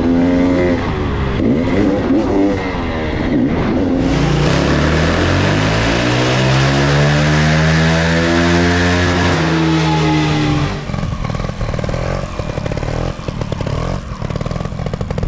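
Single-cylinder ATV engine revving up and down, the pitch climbing and holding high before easing off about ten seconds in. After that it drops to a lower, choppier running.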